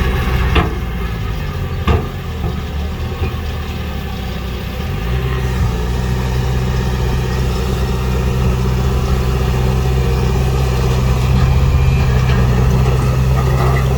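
Heavy diesel engine of earthmoving machinery running steadily, with two sharp knocks in the first two seconds. The engine note firms up and grows slightly louder about five seconds in.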